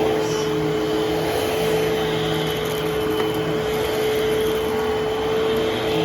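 Eureka vacuum cleaner running steadily, its motor holding a constant pitch over the rush of airflow.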